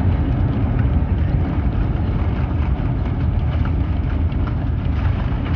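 Steady low rumble heard inside the cabin of an Airbus A350-900 as it lands, with scattered faint clicks.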